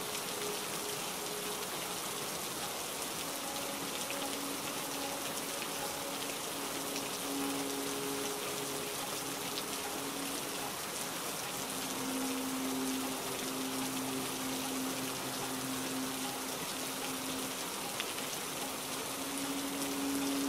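Steady rain with a dense, even hiss. Under it, soft held notes of slow background music change every few seconds.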